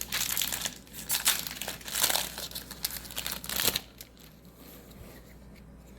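Foil booster pack wrapper crinkling as it is handled and opened, in several bursts over the first four seconds.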